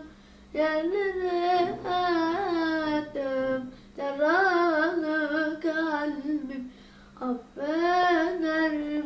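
A single voice singing the melody unaccompanied, in several drawn-out phrases with short pauses for breath between them.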